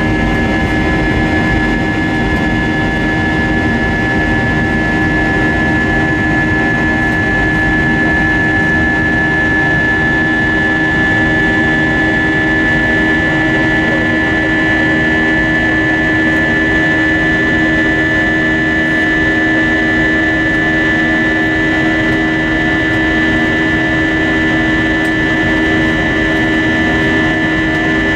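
Jet engine drone heard from inside the cabin of an Airbus A320-232 with IAE V2500 engines: a steady rush of air and engine noise with a constant high whine over a low hum, unchanging throughout.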